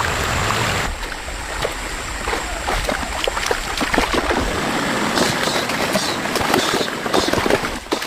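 Rushing floodwater, then, about a second in, a run of irregular splashes and sharp knocks in shallow water.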